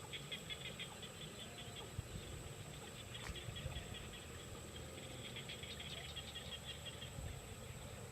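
Small birds in a nest cheeping in rapid runs of short high-pitched notes, coming in several bursts. A faint steady high whine sits underneath.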